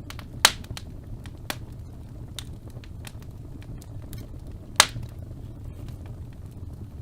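Fire burning in a fireplace: a steady low rumble of flames with scattered crackles, and two loud sharp pops, one about half a second in and one near five seconds in.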